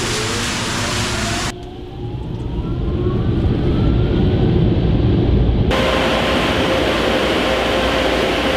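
Water spray hissing over a Ford F-150 Lightning in a leak-test booth, stopping abruptly about a second and a half in, leaving a low rumble and the electric truck's motor whine rising steadily in pitch as it pulls forward. A steady hiss with a hum comes back a little past halfway.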